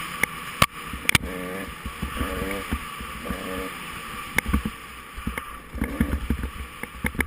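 Off-road racing engine revving up and down as the rider works the throttle through the trail, with several sharp knocks and clatters from the machine over rough ground and wind rushing on the microphone.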